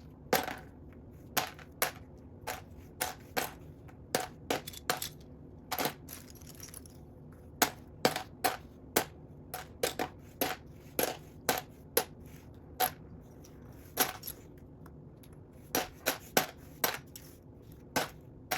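Small plastic Lego pieces clicking against one another and the table as they are handled and sifted through: a string of sharp, irregular clicks, about one or two a second.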